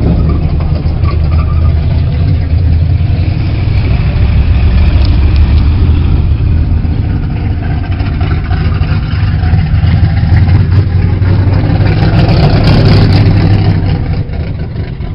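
A car engine running close by with a steady low rumble, as at idle; it grows quieter about fourteen seconds in.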